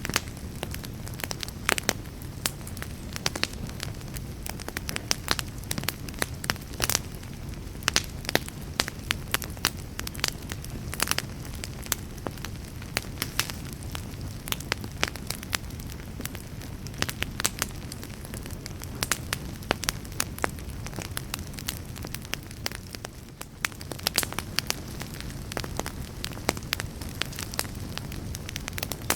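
Wood fire burning in a fireplace: a steady low rumble and hiss of the flames, with frequent sharp, irregular crackles and pops.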